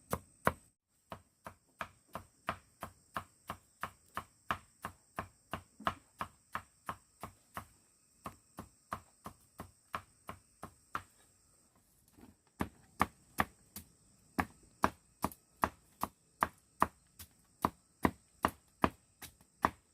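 Knife chopping on a cutting board in a steady rhythm, about three strokes a second, with a short break about a second in and softer strokes for a few seconds in the middle.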